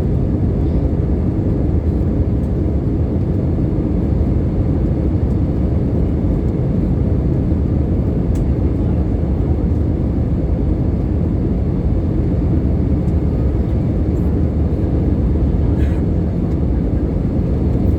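Steady low rumble of an Airbus A320's cabin, its CFM56 engines and the airflow over the fuselage heard from inside.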